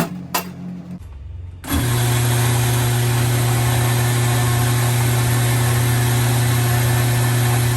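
Electric espresso grinder running steadily, a motor hum under an even grinding hiss, starting about two seconds in and stopping just after the end: grinding coffee while dialing in the espresso.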